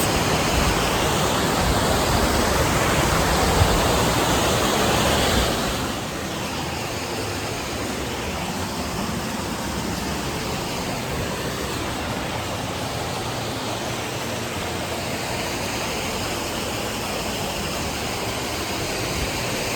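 Troll Falls waterfall pouring: a steady rushing of falling water that drops somewhat in level about six seconds in.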